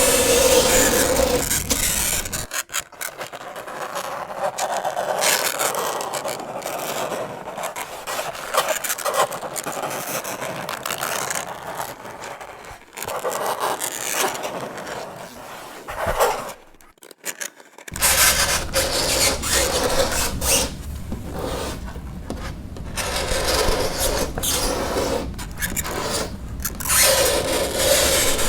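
Fingernails scraping across a chalkboard in repeated rasping strokes, broken by short gaps, with a brief pause about seventeen seconds in.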